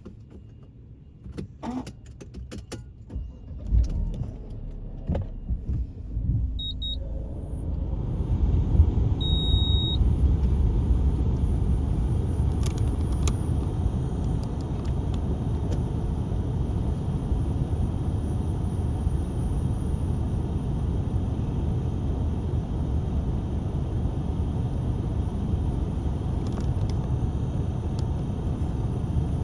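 A few scattered clicks and knocks, then from about eight seconds in a steady low motor-vehicle rumble.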